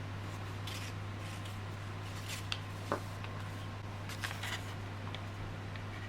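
Close-up handling of a small plastic earbud and repair tools: scattered light clicks, taps and rustles, the sharpest about halfway through, over a steady low hum.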